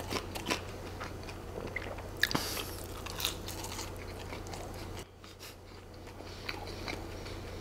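A person chewing a mouthful of food close to the microphone: scattered soft wet clicks and smacks of the mouth, with one sharper click a little over two seconds in.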